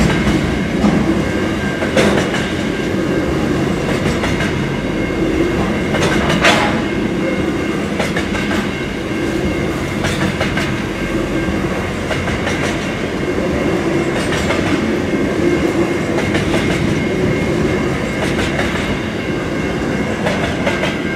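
Double-stacked container wagons of a freight train rolling past close by: a steady rumble of wheels on the rails with repeated clicking, and a sharp knock about six and a half seconds in.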